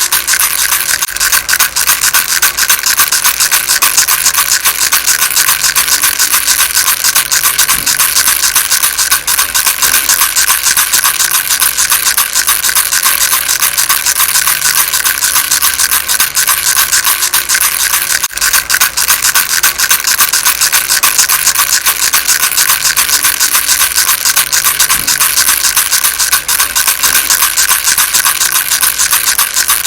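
Baby rattle shaken steadily without pause, a fast, dense rattling.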